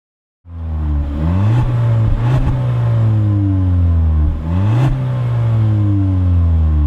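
The 1.4-litre TSI four-cylinder engine of a VW Polo Blue GT revving hard. Its pitch climbs quickly a few times and then sinks back slowly between climbs.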